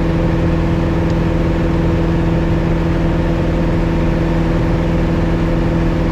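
Piper Cherokee 180's four-cylinder Lycoming O-360 engine and propeller droning steadily at climb power. The engine is new and in its break-in hours.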